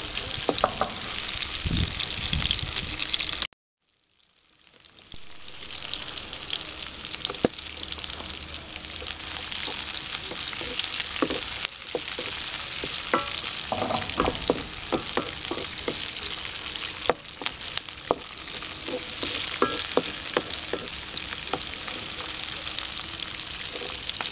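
Onion, garlic and pepper strips sizzling in hot oil in a metal wok, stirred with a spatula that scrapes and ticks against the pan. The sizzle cuts out suddenly about three and a half seconds in, then builds back up over a couple of seconds and carries on steadily.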